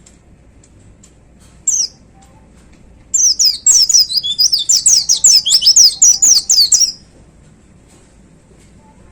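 White-eye (pleci) singing: one short high call about two seconds in, then a loud burst of about four seconds of rapid, high, sweeping notes in quick succession, the rapid-fire 'tembakan' song that pleci keepers prize.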